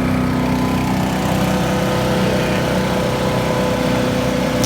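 Champion 224 cc gas wood chipper shredder's single-cylinder engine running steadily at speed. It is very loud, with a constant pitch.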